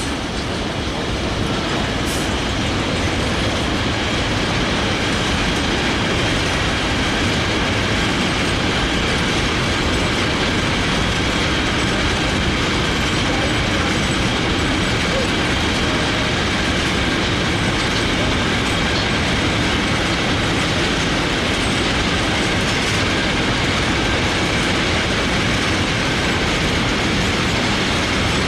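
Train behind a Class 66 diesel locomotive passing at steady speed: a continuous, even rolling noise of wagon wheels on the rails, with faint high squealing tones.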